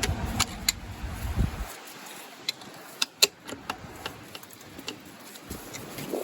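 A scattered series of light metallic clicks and taps from a steel bearing cap and its bearing shell being worked off the crankshaft of a Case 188D diesel engine. The loudest click falls about three seconds in, over a low rumble in the first second and a half.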